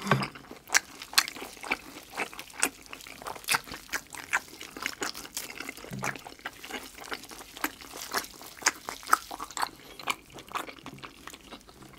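Close-miked wet chewing and sticky lip smacks of braised pork trotter skin and meat, as quick uneven clicks. A short hummed "mm" comes about six seconds in.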